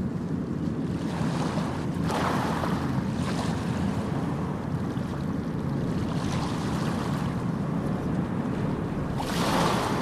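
Sea waves washing in over a steady low rumble of wind on the microphone, with surges of surf hiss about two seconds in and again near the end.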